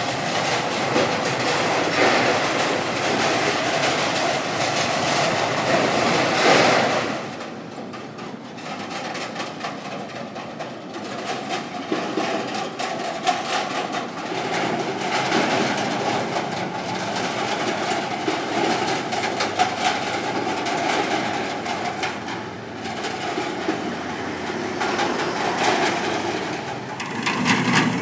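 Motorcycles crossing a steel bridge in a steady stream, the deck rattling and clanking under their wheels over the hum of their small engines. It is loudest for the first seven seconds, then eases a little and runs on.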